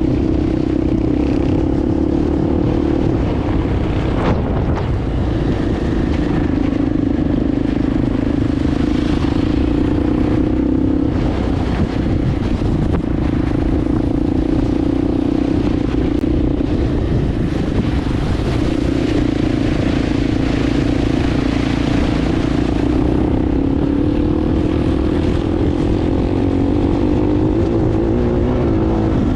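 Motorbike engine running steadily while riding, over rumbling road and wind noise. The engine note dips briefly about eleven seconds in and shifts in pitch near the end.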